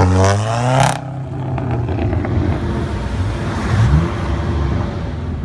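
A car engine revving, its pitch climbing until it drops off sharply about a second in, then running at a lower, rougher level.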